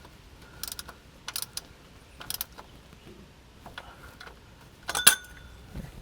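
Metal hand tools being handled during an oil-filter change: a few separate sharp clicks and clinks, some with a short metallic ring, the loudest about five seconds in.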